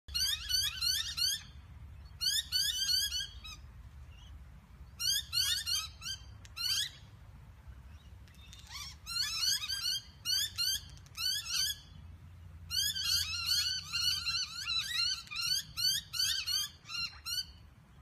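A flock of birds chirping in bursts of rapid, sharp, high, downward-sliding notes, each burst about a second long. The bursts come in ones and twos at first and run together into nearly continuous chatter in the last few seconds.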